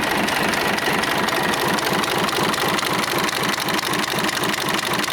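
Isuzu UM6HE1TCX marine inline-six turbodiesel running steadily at an even, low speed, with a regular rhythmic pulse.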